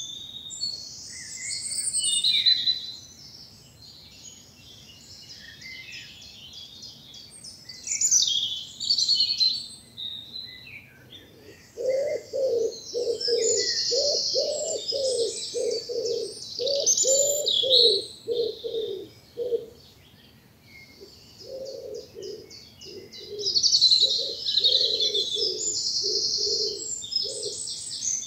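Woodland dawn chorus: several songbirds singing and trilling in overlapping phrases. Through the second half a lower-pitched bird repeats a cooing note about twice a second, in two runs with a short break between them.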